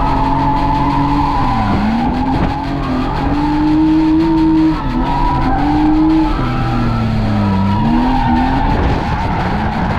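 Drift car's engine held at high revs, its pitch dipping and climbing back about four times as the throttle is lifted and reapplied, with tyres skidding through the slide.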